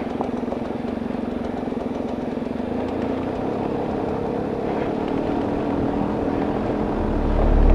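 Pickup truck engine running steadily at low speed as the truck crawls along a rough dirt trail. Music fades in and swells near the end.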